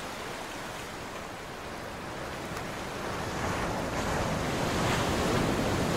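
Steady rushing noise like wind or surf, with no tones or distinct events, growing slowly louder through the second half.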